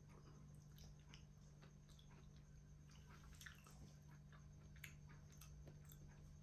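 Near silence: faint, scattered mouth clicks of a man chewing a mouthful of food, over a steady low room hum.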